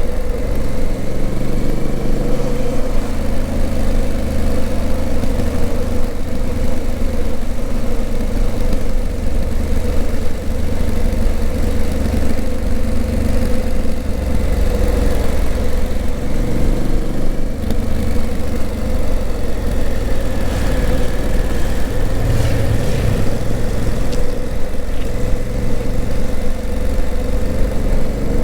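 Honda CRF1000L Africa Twin's parallel-twin engine running while riding, its low note shifting in pitch a few times, over a steady rush of road noise.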